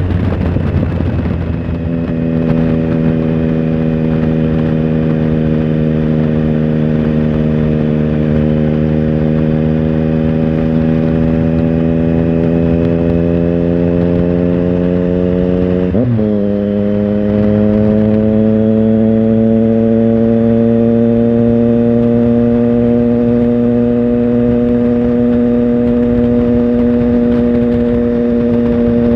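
Triumph Tiger Sport 1050's three-cylinder engine pulling under steady throttle, its revs climbing slowly, with a quick upshift about sixteen seconds in that drops the pitch before it settles and climbs gently again.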